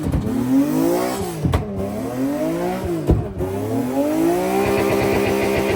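High-performance car engine revving hard three times, the pitch climbing and then falling sharply, with a sharp crack at each drop; the last climb is the longest.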